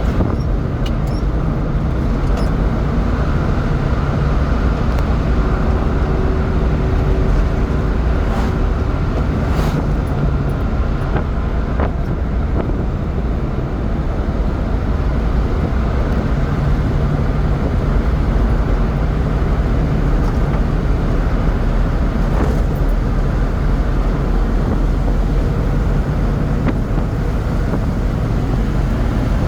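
Honda kei truck driving at speed: a steady engine drone under continuous road and wind noise.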